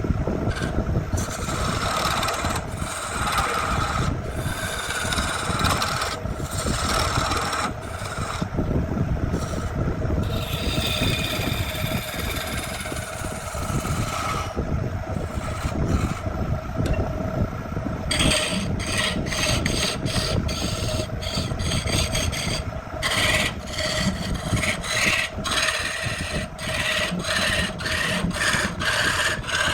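Wood being abraded by hand-held tool work, a continuous rasping scrape that turns into quick repeated strokes about two thirds of the way through, over the steady hum of a running machine.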